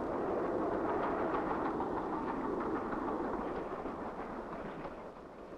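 A train running past, a dense rumble with faint clicks that fades away over the last two seconds.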